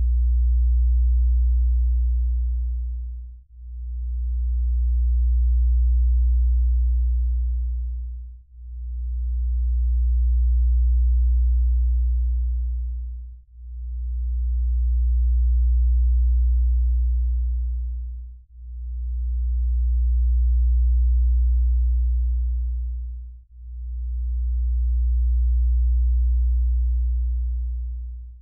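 A deep, pure electronic tone that slowly swells and fades away again every five seconds, in even pulses.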